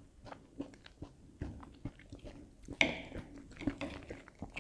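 Close-up mouth sounds of someone chewing and biting a breaded, tomato-filled Findus Sofficino, with scattered small clicks and a louder moment just under three seconds in.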